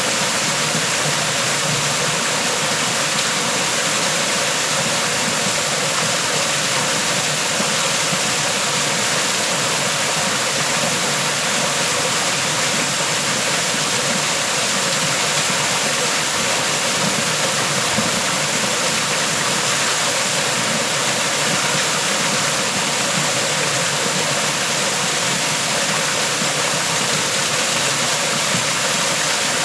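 Waterfall: water falling and rushing in a loud, steady, unbroken hiss.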